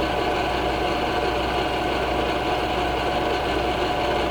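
Milling machine running steadily under automatic table feed, a carbide cutter taking a facing cut in aluminium: an even mechanical hum with a steady whine.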